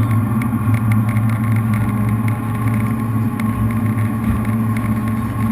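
Jet boat's V8 engines running steadily, a continuous low hum.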